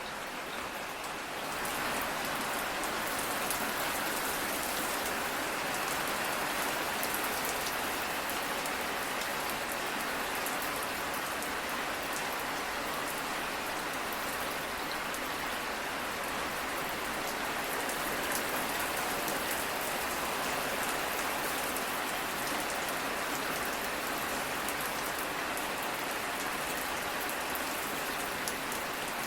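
Steady rain falling on a surface, an even hiss of many drops with fine pattering, growing a little louder about a second and a half in.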